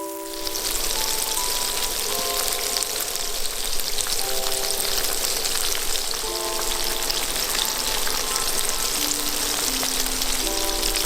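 Batter-and-flour-coated chicken pieces deep-frying in hot oil in a wok, the first fry: a dense, steady sizzle that comes in suddenly at the start.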